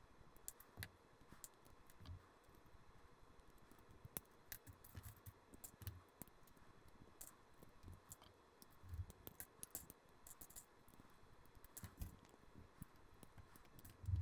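Faint, irregular clicking and light knocking of LEGO bricks being pulled apart and set down.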